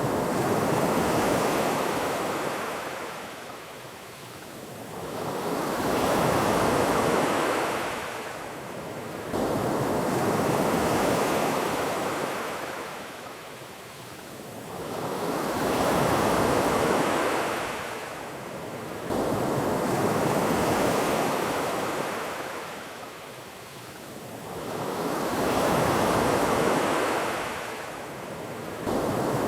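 Ocean waves breaking and washing up the beach in slow surges, each swell rising and fading about every five seconds.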